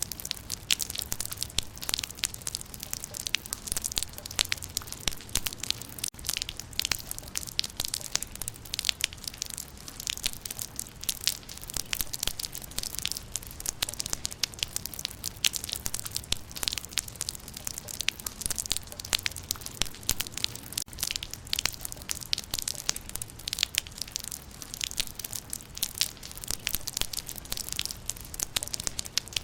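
Rain falling on leaves: a dense, irregular patter of drops striking foliage.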